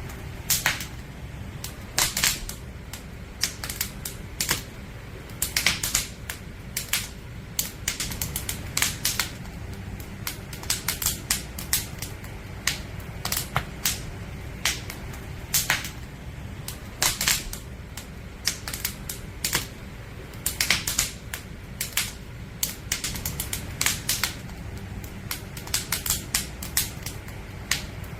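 Firewood burning in a campfire, crackling and popping in irregular sharp snaps, some in quick clusters, over a steady low rumble.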